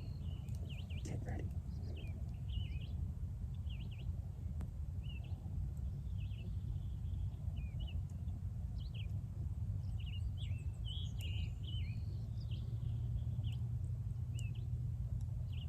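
Birds chirping with many short, quick calls, over a steady low rumble.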